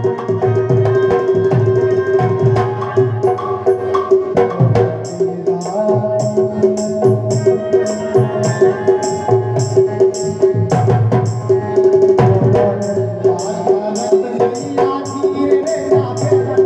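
Instrumental folk music: drums keep a steady, driving rhythm with crisp metallic ticks over a held melodic tone.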